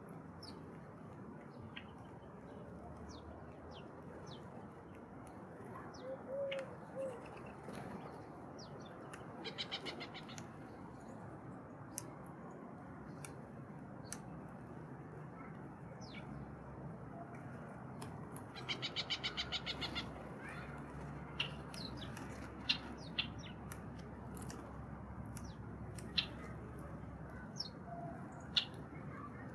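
Small birds chirping with short, scattered high calls. Two rapid trills of about ten notes a second stand out, one about ten seconds in and a longer one a little later. A steady background hiss runs beneath.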